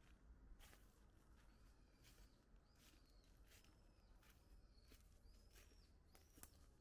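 Faint wild bird calling: a short, high arching note repeated steadily, about three calls every two seconds, over a low outdoor rumble.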